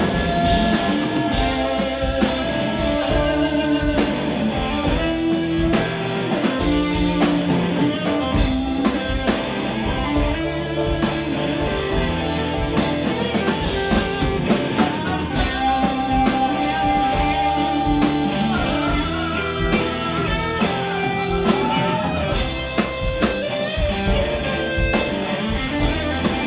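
Live rock band playing an instrumental break: guitar carrying the melody over drum kit and bass, with no vocals.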